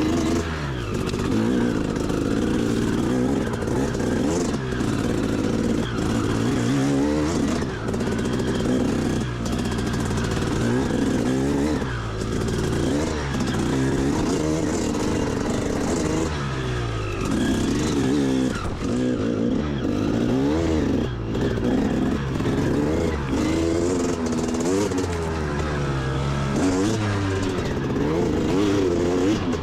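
Dirt bike engine being ridden, its pitch climbing and dropping back again and again as the throttle is worked.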